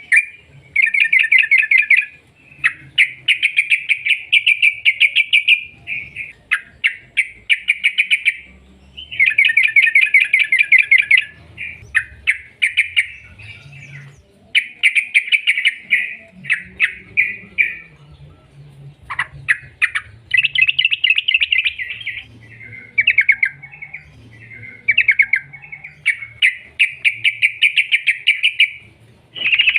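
Trucukan (yellow-vented bulbul) singing a loud, rapid rattling song in repeated phrases of fast chirps, each about a second or two long with short pauses between.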